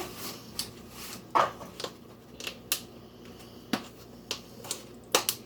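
Kitchen handling sounds: about a dozen scattered light clicks and knocks as containers and utensils are moved about on the counter.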